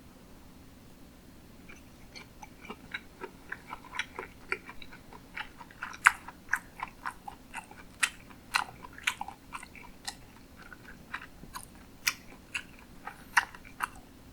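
Close-miked chewing of sushi: wet, smacking mouth clicks, several a second, starting about two seconds in and stopping near the end.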